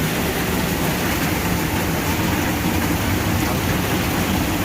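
Heavy rain pouring down with water rushing out of a blocked, overflowing drain: a steady, dense rushing noise.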